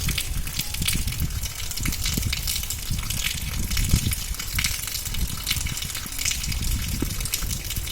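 Heavy rain pouring down steadily, a dense hiss with many small drop ticks over a low rumble.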